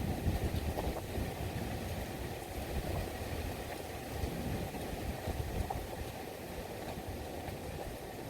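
Rainstorm noise: a steady, low rushing rumble of rain and wind, with faint scattered ticks.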